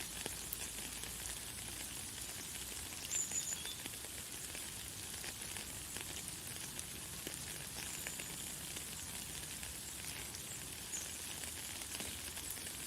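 Light, fine rain falling steadily: an even hiss full of tiny drop ticks. A few brief high bird chirps come through, the loudest about three seconds in.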